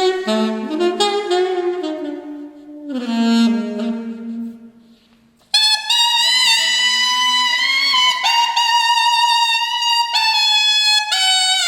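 Alto saxophone playing a slow, expressive phrase that dies away briefly, then comes back in on long, high held notes with vibrato.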